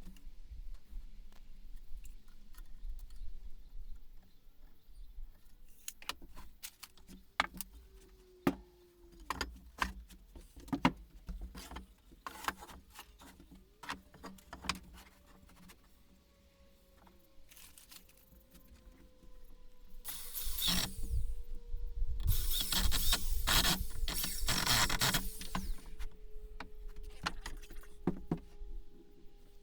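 Workshop assembly of wooden framing: scattered knocks and clicks of wood pieces and screws being handled, then a power drill driving screws in a few loud bursts about two-thirds of the way through.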